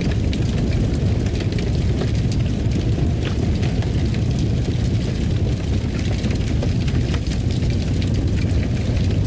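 Wood fire burning in a fireplace: a steady low rumble with frequent small crackles and pops scattered through it.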